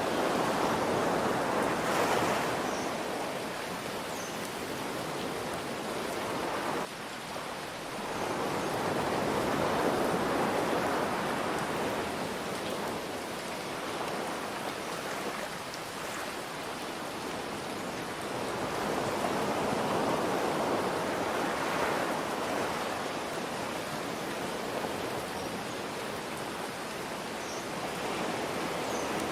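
Ocean waves surging and washing back in slow swells, mixed with a steady hiss of rain.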